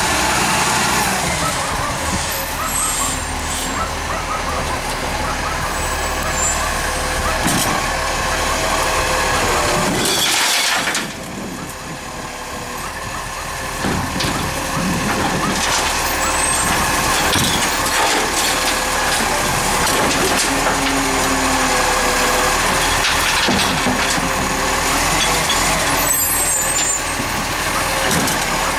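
Recycling garbage truck running steadily, with a short hiss of air about ten seconds in, after which it goes quieter for a few seconds before picking up again.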